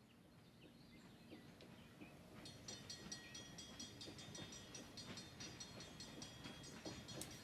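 Faint rumble of an approaching passenger train on the rails, growing slowly louder. From about two and a half seconds in, a high steady whine joins it.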